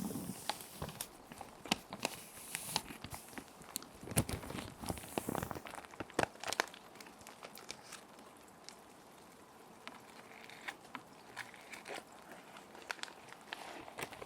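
Crinkling and rustling of plastic sheet protectors as paper sheets are handled and slid into them, with sharp crackles that come thickly in the first half and sparser after. A steady patter of rain runs underneath.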